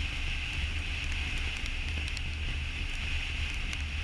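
Steady low rumble and hiss of a vehicle driving, with scattered sharp ticks of raindrops striking.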